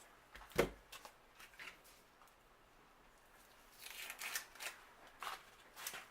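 Papery outer skin of an onion being peeled off by hand: short dry crackles and tears, busiest near the end, with one sharp knock about half a second in.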